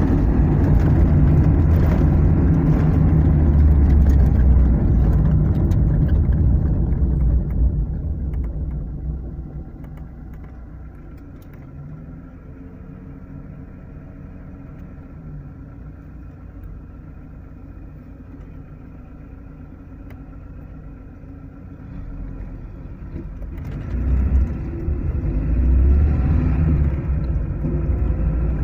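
Car running on the road, heard from inside the cabin: low engine and road rumble that falls to a quieter steady hum about eight seconds in, then rises again after about twenty-three seconds as the car picks up speed.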